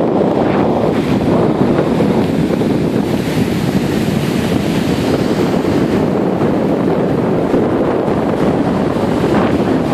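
Strong wind buffeting the microphone over heavy surf stirred up by an approaching tropical storm: a loud, steady rush of noise.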